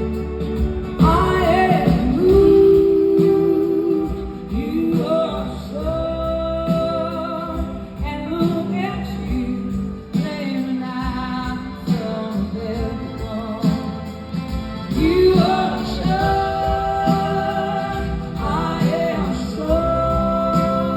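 Live rock band playing an instrumental passage between verses: sustained, gliding melodic lines over steady bass and drums.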